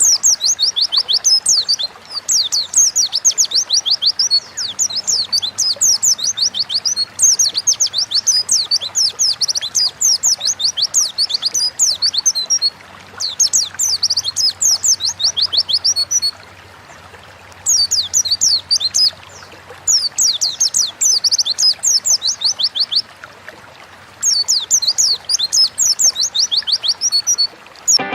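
A pleci (white-eye) singing in fast runs of high, twittering, down-sweeping notes, each run a few seconds long, with short pauses between them.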